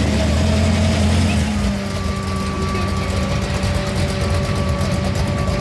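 A car engine idling, its low hum dropping away about a second and a half in, with fainter steady engine tones carrying on.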